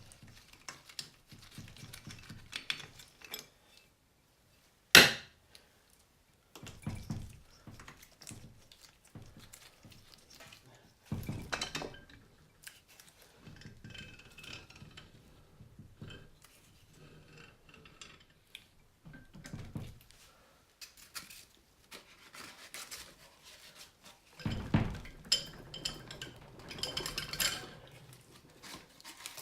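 Metal engine parts and hand tools clinking and knocking as an engine is taken apart, with one sharp loud clack about five seconds in and heavier thuds later on.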